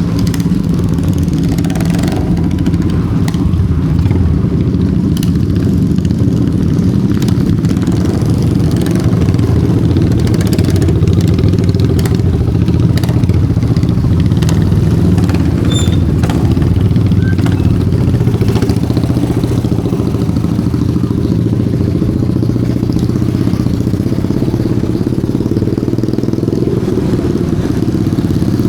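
Motorcycle engine running steadily with a low drone, with a few faint clicks over it.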